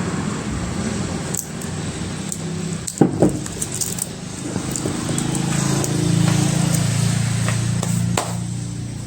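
Electric mathani (churner) motor running with a steady hum, with a sharp knock about three seconds in and a few light clicks.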